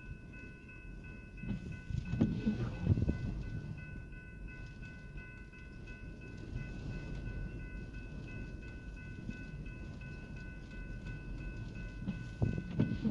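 Train passing a grade crossing, heard from inside a car: a low rumble with heavier thumps about two seconds in and again near the end. Over it the crossing's electronic warning bell sounds as a steady tone throughout.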